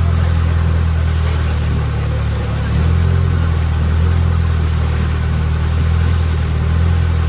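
Motorboat engine running steadily under way, a deep, even drone that gets a little louder about three seconds in.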